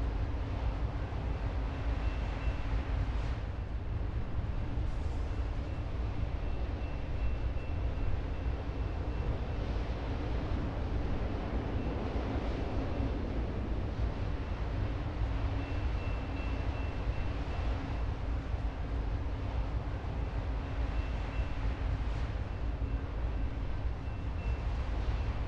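Freight train rolling past: a steady, low rumble of diesel locomotives and autorack cars on the rails, with a low hum and a faint high whine that comes and goes.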